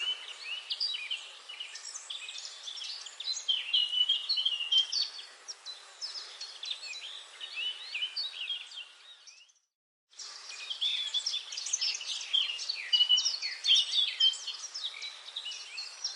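A dense chorus of many songbirds chirping and trilling. A little past halfway it fades out into a second of silence, then starts again abruptly.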